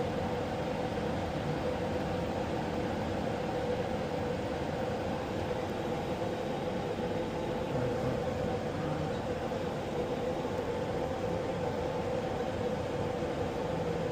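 Pratt & Whitney aircraft turbine engine running steadily at ground idle after a normal start: an even drone with a constant tone in it.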